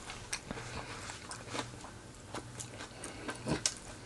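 A person chewing fried chicken close to the microphone: scattered soft mouth clicks and chewing noises at an uneven pace.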